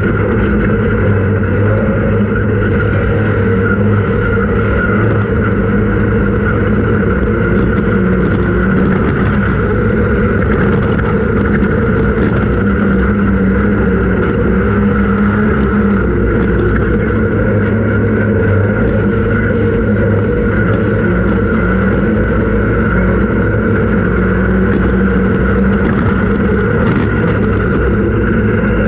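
Off-road race vehicle's engine running at steady revs, a constant drone that holds for the whole stretch.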